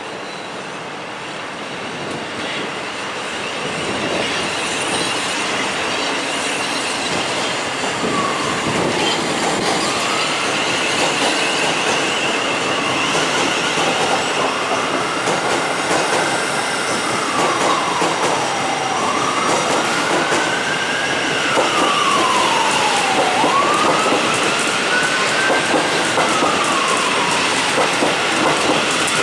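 Thameslink Class 700 electric train running past on a curve, growing louder over the first few seconds, with wheel clatter. A high, wavering squeal is held, and a whine rises and falls about four times.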